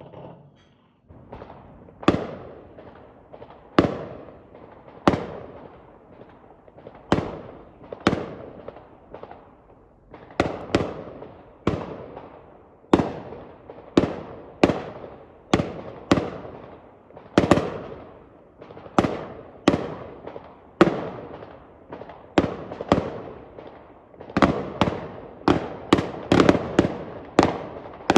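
Fireworks going off one after another, each a sharp bang with a short decaying rumble, about one a second, coming faster near the end.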